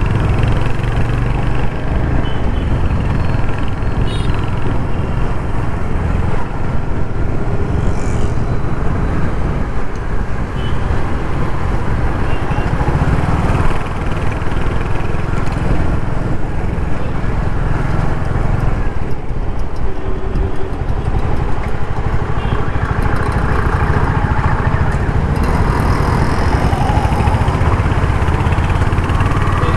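Royal Enfield Hunter 350's 350cc single-cylinder engine and exhaust running steadily as the bike rides along, with road and traffic noise around it.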